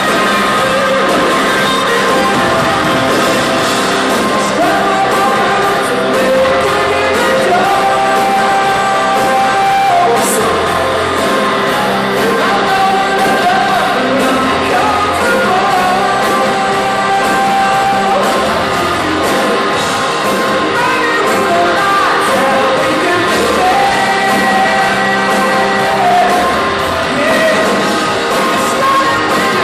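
Rock band playing live, with a lead vocalist singing over full band accompaniment.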